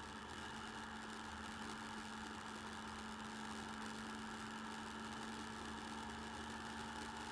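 Motorcycle engine running at a steady, unchanging pitch, heard through a bike-mounted camera's microphone over a constant hiss.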